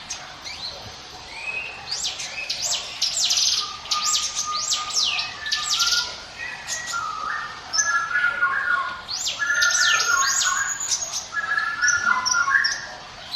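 Ciblek gunung, a prinia, singing its 'ngiwit wit' song: runs of rapid, high notes that sweep steeply downward, broken by lower chattering phrases.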